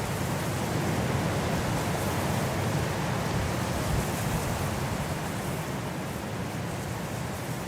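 Steady wind, a continuous low rushing noise that eases slightly near the end.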